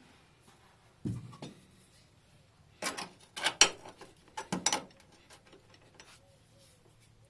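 A few short knocks and scrapes of hard objects being handled: one about a second in, a cluster between about three and four seconds in, and another around four and a half seconds in.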